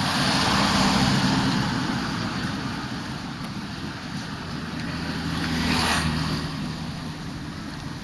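Street traffic on a busy road: a vehicle drives past about a second in and another near six seconds, their engines humming over a steady roadside noise.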